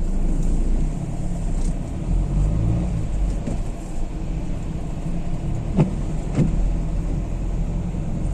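Inside a Renault Kangoo's cabin on the move: a steady low engine and road rumble, with two short sharp sounds close together about six seconds in.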